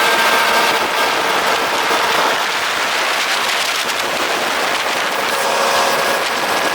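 Charter fishing boat underway: a steady rush of wind and water noise with a faint engine hum beneath it.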